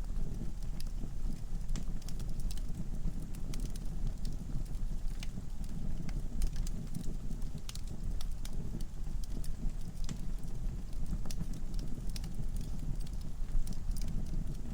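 Wood fire burning in a fireplace, crackling: many irregular sharp pops and snaps over a steady low rumble of the flames.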